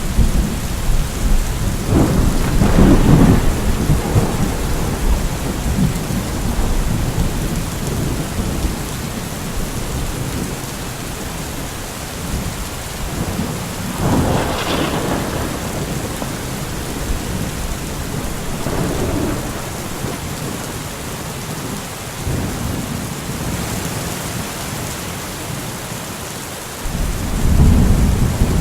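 Steady heavy rain with rolls of thunder: a deep rumble a couple of seconds in, a sharper crack about halfway through, and another low rumble near the end.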